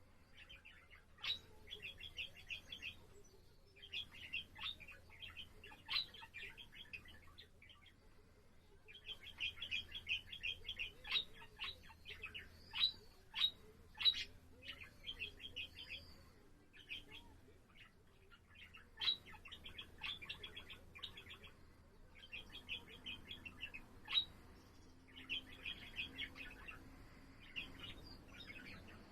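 Budgerigar warbling: runs of rapid, scratchy chattering lasting a few seconds each, with sharp chirps standing out and short pauses between runs.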